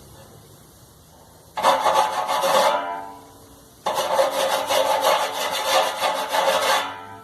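Hand file rasping in quick strokes over a sharp edge of a Brastemp dryer part, dulling the edge so it no longer cuts. Two runs of strokes: a short one about a second and a half in, then a longer one of about three seconds from about four seconds in.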